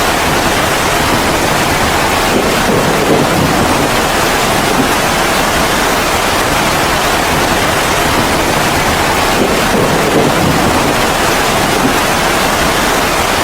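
Heavy rain falling: a loud, steady rushing hiss.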